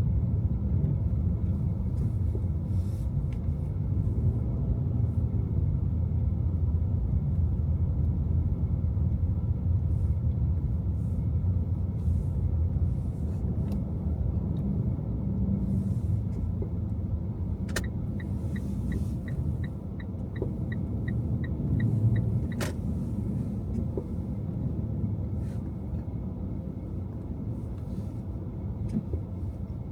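Car driving on snowy city streets: a steady low rumble of engine and tyre noise. A little past halfway comes a quick run of short, high beeps, about three or four a second for some four seconds, with a sharp click at either end.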